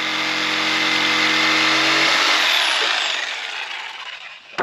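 Circular saw cutting through a wooden truss board: the motor runs with a steady whine under the cutting noise. After about two seconds the trigger is let go and the blade spins down, its whine falling in pitch as the sound fades.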